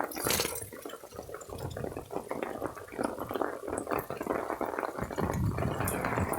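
Rainwater dripping and splashing as many quick, irregular drops.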